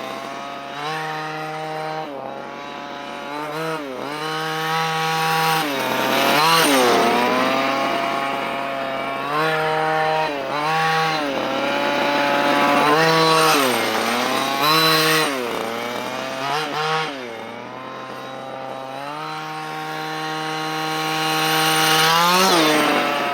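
Dynamite CY23cc two-stroke gas engine of a 1/5-scale Losi Desert Buggy XL running during its break-in. It holds a steady idle between repeated short throttle blips, the pitch rising and falling every second or two, and revs up once more near the end.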